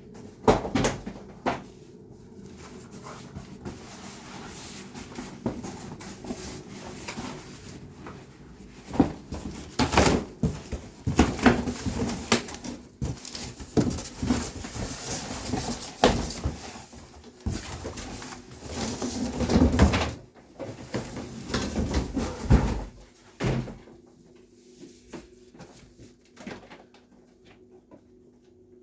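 Irregular knocks, clicks and rubbing of hands working on a refrigerator door and its rubber gasket, loudest between about 9 and 23 s, over a steady low hum.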